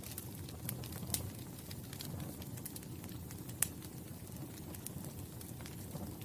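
Wood fire crackling: a steady low rumble of burning with scattered sharp pops, the loudest about three and a half seconds in.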